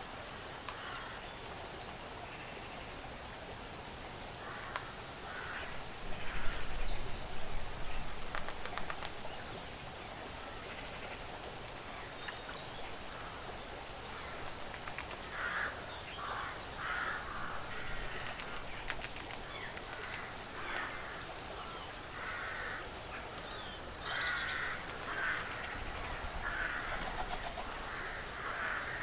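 Woodland ambience: scattered high bird chirps over a steady hiss, a few sharp clicks, and, through the second half, a run of short, harsh, crow-like calls repeated about once a second. There is a louder rustle a few seconds in.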